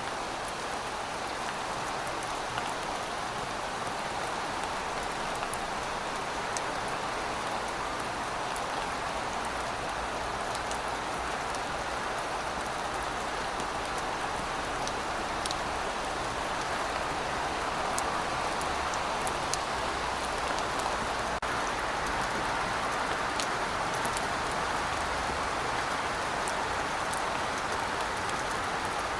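Heavy rain falling steadily, a dense even hiss with scattered individual drop ticks, swelling slightly in the second half.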